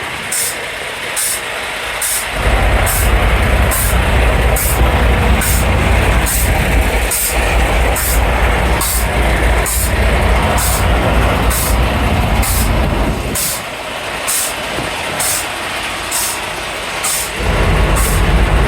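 Semi-truck running at idle close by, a steady low rumble under a constant hiss, with an even, fast high ticking about two or three times a second. The low rumble drops away briefly near the start and again near the end.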